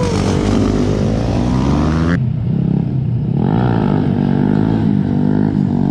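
Dirt bike engine running and revving, its pitch rising and falling as the throttle is worked. The sound changes abruptly about two seconds in, then carries on at varying revs.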